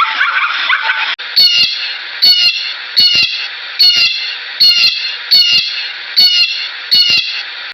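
An animal call, short and high-pitched, repeated eight times a little under a second apart, after a dense, noisy chorus of calls cuts off about a second in.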